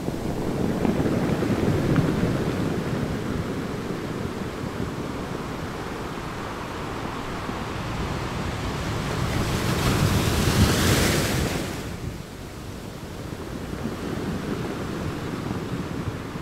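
Wind buffeting the microphone: a rushing noise that swells and falls in gusts. The strongest gust, about ten seconds in, adds a high hiss.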